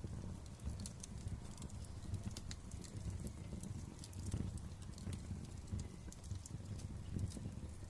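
Wood fire crackling: many irregular, sharp pops and snaps over a steady low rumble of the flames.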